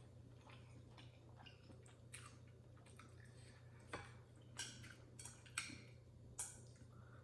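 Faint close-up chewing of noodles, with a few short wet mouth smacks and clicks, over a low steady hum.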